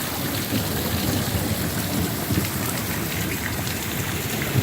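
Heavy rain falling steadily, a dense hiss of drops with scattered small taps and one sharper tap just before the end.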